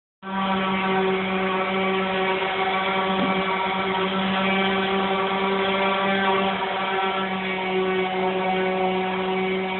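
1952 Chevy truck's engine running at a steady speed, a constant even drone that holds one pitch without revving.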